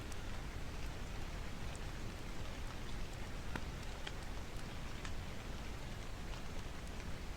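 Steady rain falling, with a wood fire crackling over it in sharp scattered pops about once a second.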